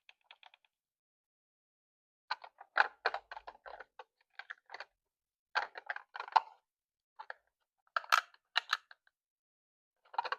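Small hard plastic pieces clicking and tapping in quick clusters with pauses between: miniature toy food items being set into a toy fridge.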